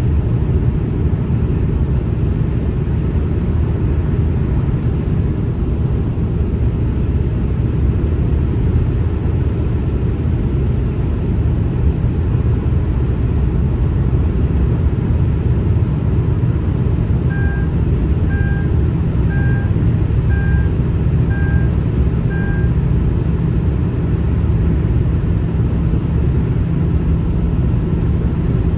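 Steady low rumble of a car travelling on a highway: even road and tyre noise. A little past the middle, six short beeps sound about a second apart.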